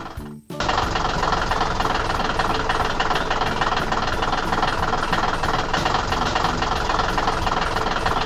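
A machine's engine running steadily, starting after a brief gap about half a second in.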